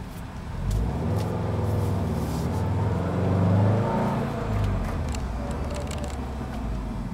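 2011 Subaru WRX STI's turbocharged flat-four running through a Lachute Performance catback exhaust and TurboXS downpipe. It builds up about a second in, grows to its loudest a little past the middle, then eases off with the pitch falling.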